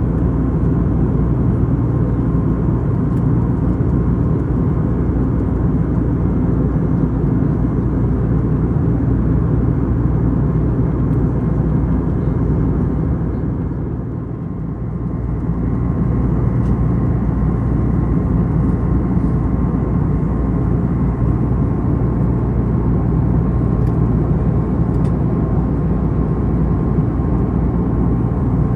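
Airbus A321neo cabin noise in flight: a loud, steady low rush of jet engines and airflow with a faint steady whine, dipping briefly about halfway through.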